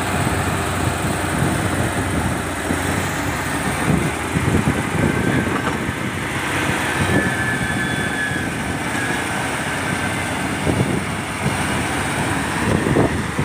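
Truck engines running over a steady outdoor din, with irregular knocks and clatters throughout.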